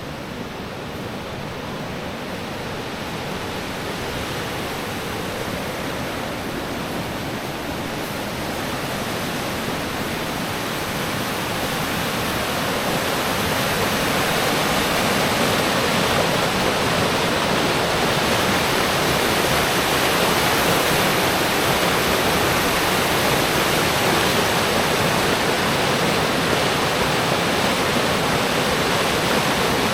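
Steady rushing of falling water, likely heavy rain, growing louder over the first dozen or so seconds and then holding steady.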